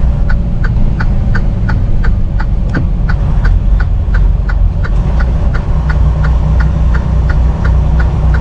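Semi-truck engine and road rumble heard inside the cab, steady and loud, with a sharp ticking repeating about three times a second.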